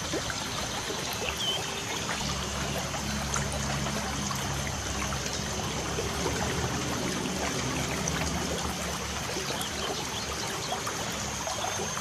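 Light rain falling with a steady trickle of water, and a couple of faint, short bird chirps.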